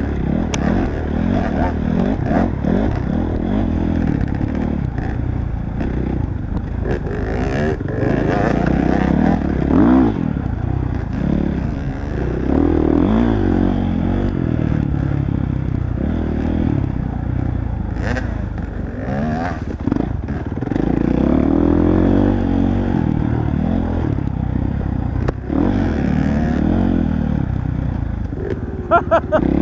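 Off-road motorcycle engine revving up and down continuously while riding a trail, with a few sharp knocks and rattles along the way.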